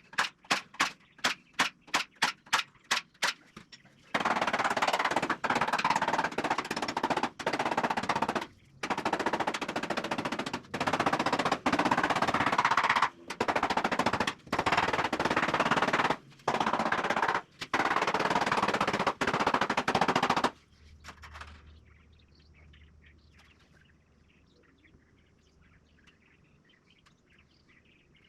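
A power tool working wood in a series of rattling bursts of one to four seconds with short breaks between them, after about a dozen sharp clicks at the start. It stops about twenty seconds in, leaving a low background with faint bird chirps.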